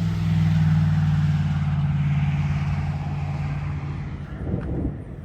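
A motor vehicle's engine and tyres running steadily, then fading away about four seconds in, followed by a few light clicks.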